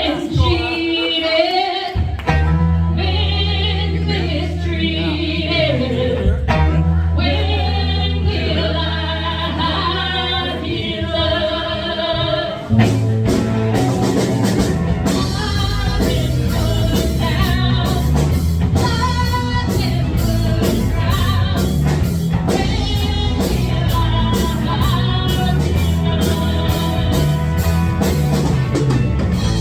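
Live rock band: sung vocals over long held bass notes, then drums and the full band come in about thirteen seconds in and carry on with a steady beat.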